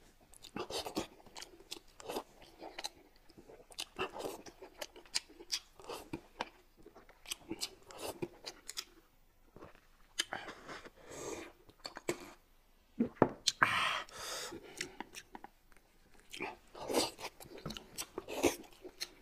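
A man eating boiled dumplings with close-up mouth sounds: wet chewing and smacking with many short clicks, and one longer sip or slurp from a bowl about two-thirds of the way in.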